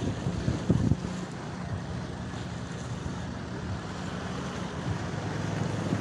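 Wind buffeting the microphone: a steady low rumble with a few louder gusts in the first second.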